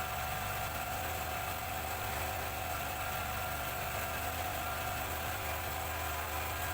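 Motorcycle engine running at a steady speed, its turning rear wheel spinning a bladeless ceiling-fan motor used as a generator.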